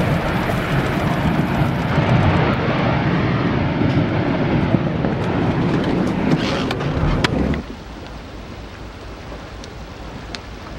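Loud wind noise buffeting the microphone, a rumbling rush that cuts off abruptly about seven and a half seconds in to a much quieter steady hiss.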